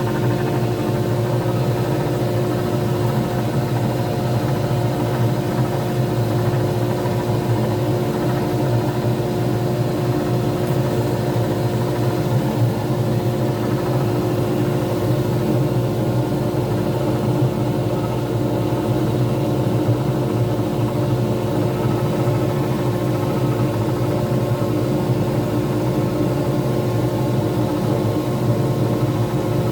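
Lathe motor running at a steady speed with the pen blank spinning, giving an even, unchanging hum.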